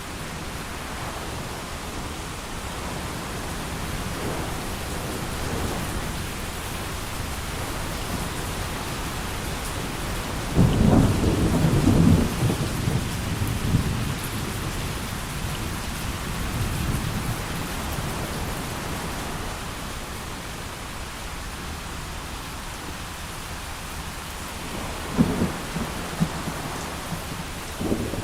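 Steady heavy rain, with a loud clap of thunder about ten seconds in that rumbles on for a couple of seconds, and a shorter crack of thunder near the end.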